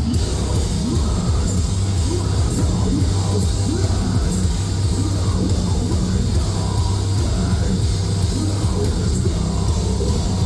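Metalcore band playing live at full volume: heavy distorted guitars, bass and drums in a steady, unbroken wall of sound.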